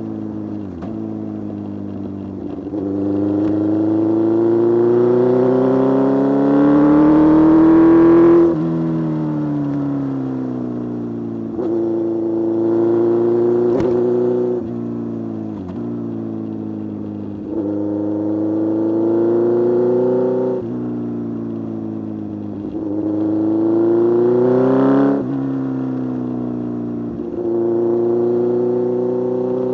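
Kawasaki Z1000 inline-four engine pulling hard, its pitch climbing under acceleration and dropping sharply at each gear change or throttle lift, several times over.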